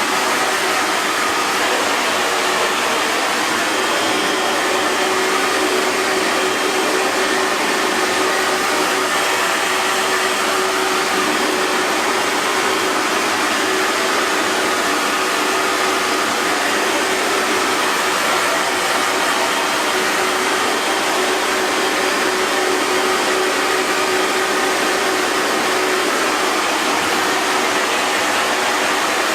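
Electric hair dryer running steadily: an even rush of blown air with a faint steady motor hum underneath.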